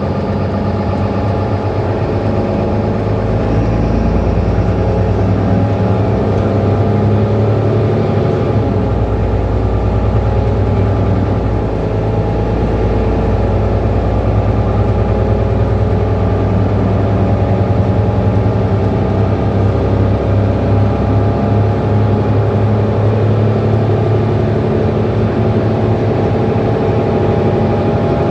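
Mercedes-Benz Citaro C2 city bus engine running while the bus drives between stops, a steady engine drone that grows a little louder about three to four seconds in, as if pulling away under load, then holds.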